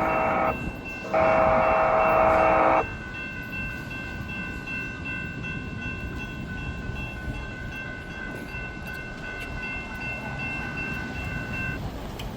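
Electric train horn at a rail crossing sounding two loud blasts, a short one then a longer one, ending about three seconds in. After it the noise of the passing train continues, with a faint steady high tone until near the end.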